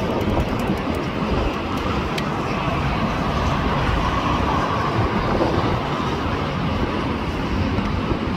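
Jet airliner engine noise: a steady, even rumble with no clear tone, holding level throughout.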